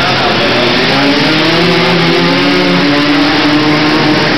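Quad ATV engines racing on an indoor motocross track, revving with the pitch climbing and then easing off, over a steady loud din.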